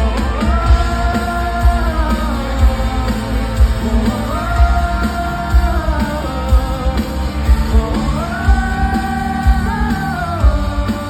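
Live pop-rock band playing with a steady drum beat while long "woah-oh" phrases are sung in a sing-along, three held phrases that each rise, hold and fall.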